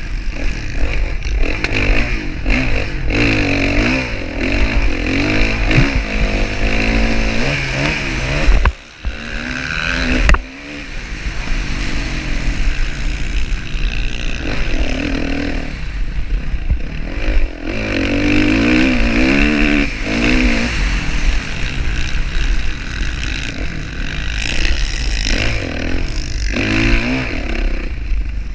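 Motocross dirt bike engine revving up and down repeatedly as it is ridden around the track, with heavy low rumble. About nine seconds in the engine briefly cuts back, then there is a sharp knock.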